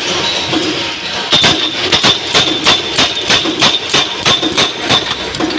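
Power punch press stamping wing-shaped washers from 2.3 mm-thick stock, striking in a steady rhythm of about three blows a second from about a second in, over a steady high whine.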